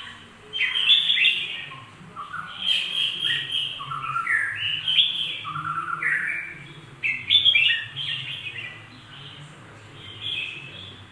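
Jambul, a crested bulbul, singing: a run of short, bright phrases of gliding whistled notes, one after another, getting quieter over the last few seconds.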